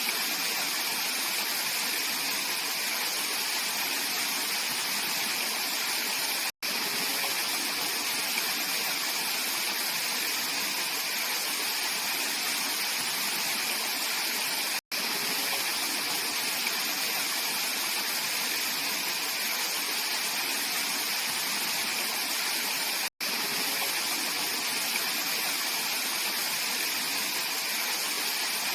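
Mountain valley stream flowing steadily, a continuous rush of water broken three times by split-second dropouts.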